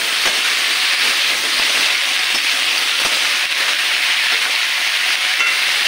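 Potato, onion and brinjal pieces sizzling in hot oil in a kadhai: a steady hiss.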